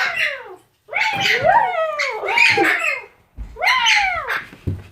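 Pet parrot calling loudly: a series of harsh calls, each falling in pitch, in two bursts with a short pause between.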